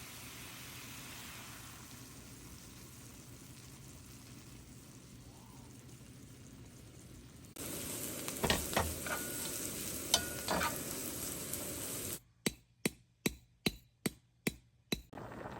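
Food sizzling in a pan while it is stir-fried, with a metal utensil scraping and clinking against the pan, some clinks ringing briefly. Near the end come about eight sharp, evenly spaced knocks, about three a second.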